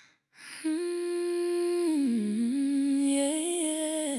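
A voice humming a slow wordless melody as the intro of a chill pop song. It holds long notes that dip lower about two seconds in and climb back before cutting off at the end.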